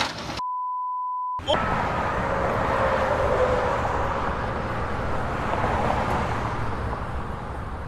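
A censor bleep, one steady pure tone lasting about a second, while all other sound is muted. Then steady road noise of a vehicle driving.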